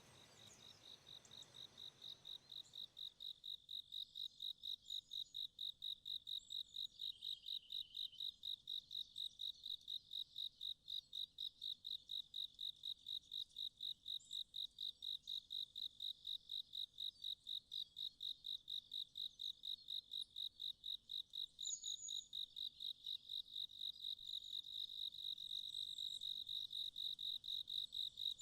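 Crickets chirping in a steady, rapid pulsing rhythm, fading in over the first few seconds.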